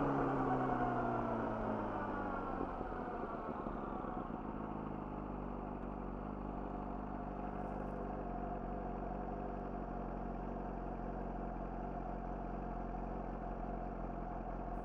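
Yamaha YZF-R6 inline-four with an Akrapovic slip-on exhaust, its revs falling away for the first few seconds as the bike slows. It then settles into a steady idle.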